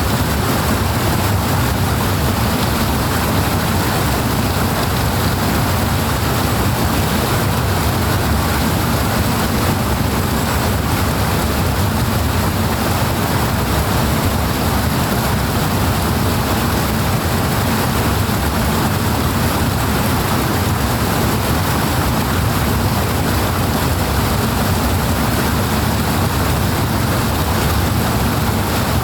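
Powerful water rushing steadily, an even loud hiss over a deep low rumble that holds without a break.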